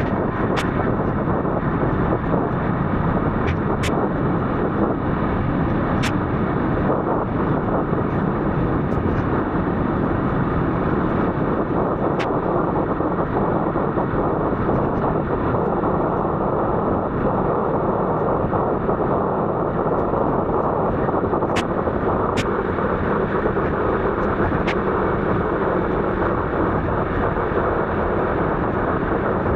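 Steady, loud rushing noise with a few sharp ticks scattered through it.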